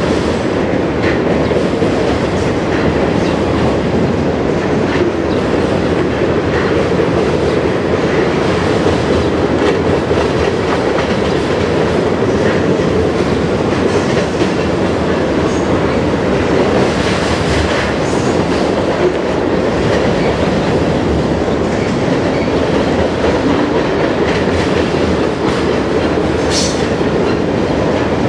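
A train's cars rolling past on steel rails, a steady loud rumble with occasional clicks of wheels over the track, and a brief high squeak near the end.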